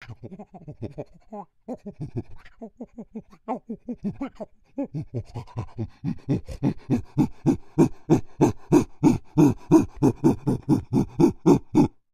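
Chimpanzee panting: loose, irregular pants at first, then a steady run of about four a second that grows louder. This is the rising build-up of a pant-hoot call.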